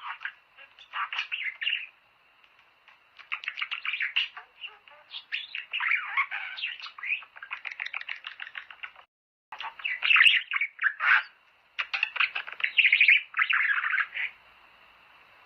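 Budgerigars chattering and warbling: runs of rapid chirps and trills in bursts with short pauses. There is a brief break a little past the middle, followed by a sharp click.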